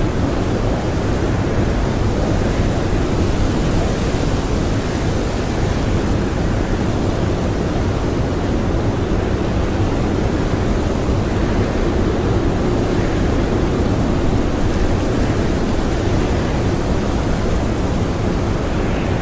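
Howling blizzard wind blowing steadily: a deep, unbroken rushing noise with no gusts or breaks.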